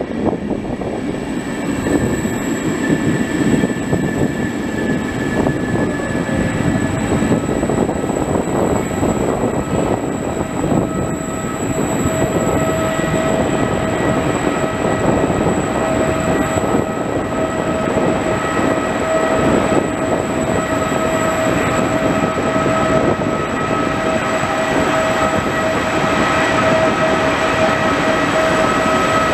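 Regional passenger train of double-deck coaches rolling into a tunnel platform and past at low speed, a dense steady rumble of wheels on rail. A steady whining tone joins about twelve seconds in and holds.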